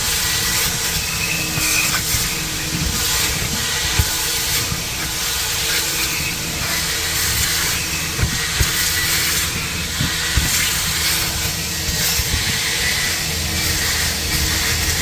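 Car wash vacuum running with a steady rushing hiss of suction, with scattered short knocks and clicks as the nozzle works over the car.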